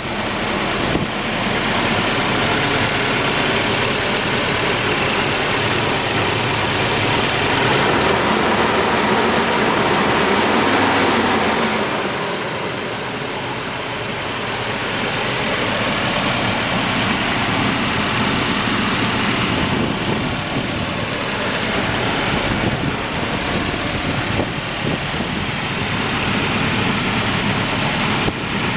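Volvo B200K 2.0-litre carburetted four-cylinder engine idling under an open hood, running smoothly, with a louder stretch of a few seconds near the middle.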